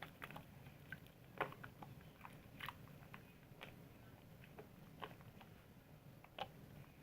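Soap being lathered: faint, scattered wet crackles and small pops at an irregular pace, over a steady low hum.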